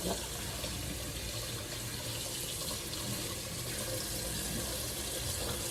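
Kitchen faucet running steadily into a sink while dishes are washed.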